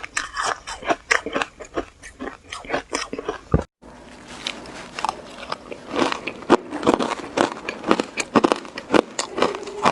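Close-up biting and chewing of powdery shaved ice: dense, rapid crunching and crackling. It cuts out abruptly for a moment near the middle, then the crunching resumes.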